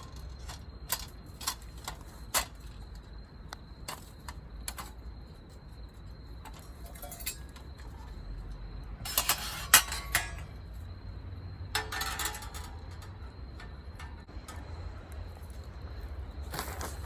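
Scattered sharp clicks and knocks of objects being handled, with louder clattering about nine seconds in and again around twelve seconds, over a faint steady high tone and a low rumble.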